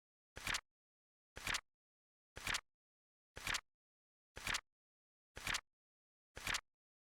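Flip clock sound effect: a short flap-like click once every second, evenly spaced, seven in a row, each with a light lead-in snap followed by a louder clack.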